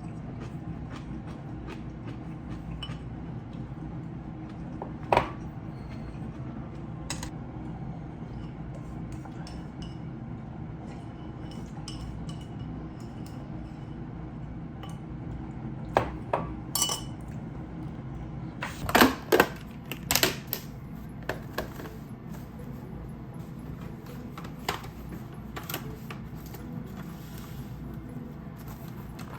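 Tableware clinking and knocking at a meal: bowls, dishes and chopsticks set down and handled now and then, with the loudest few clinks about two-thirds of the way through, over a steady low room hum.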